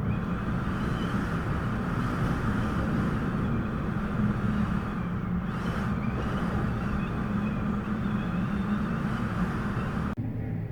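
Antarctic blizzard wind blowing hard and steadily, buffeting the microphone with a deep rumble under a rushing hiss, with faint wavering whistles above it. The high hiss drops away suddenly near the end.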